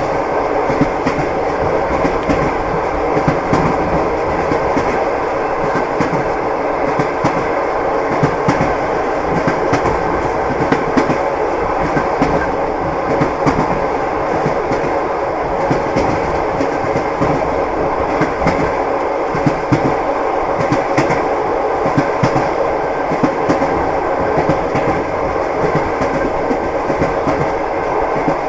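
Moving passenger train heard from inside the carriage: a steady running rumble with the clickety-clack of the wheels over the rail joints, many sharp knocks at uneven spacing.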